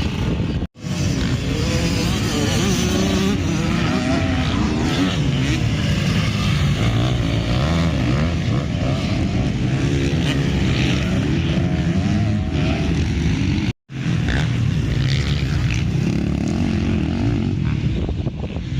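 Several motocross bikes' engines revving together, many overlapping pitches rising and falling as they ride. The sound breaks off for an instant twice, about a second in and again near 14 seconds.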